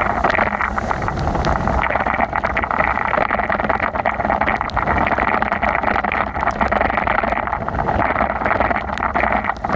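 Heavy rain during a bicycle ride: a steady rushing hiss of rain, wet road and wind on the microphone, dotted with many small ticks.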